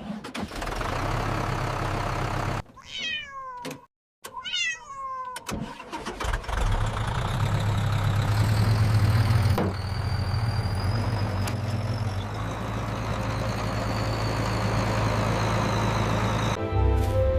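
A cat meows twice, two falling calls about three seconds in, over a steady engine running. After the meows the engine's low rumble swells and carries on.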